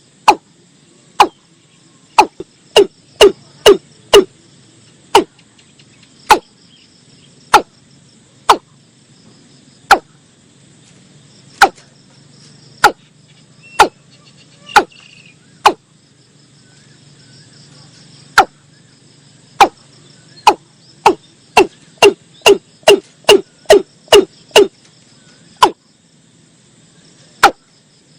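Watercock calling: a series of short, sharp, hollow notes, a few slow single notes that twice speed up into quick runs, about a second in and again past the middle. A faint steady chirr of insects runs beneath.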